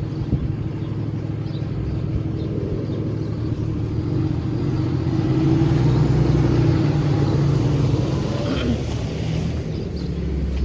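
A road vehicle's engine running close by, a steady low hum that grows louder through the middle and then eases off, like traffic passing on a snowy city street.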